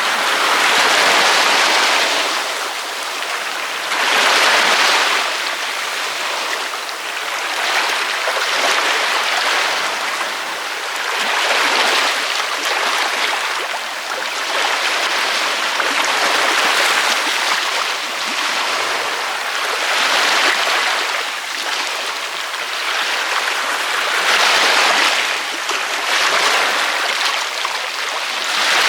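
Ocean waves breaking and washing on a beach, a continuous hiss of surf that swells and eases about every three to four seconds.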